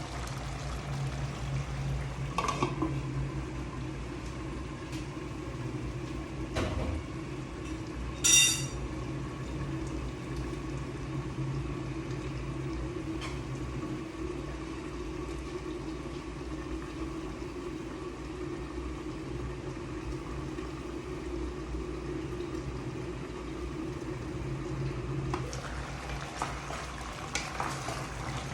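Kitchen cooking sounds: a steady low hum with occasional clinks of metal utensils against pans. The sharpest is a bright, ringing clink about eight seconds in.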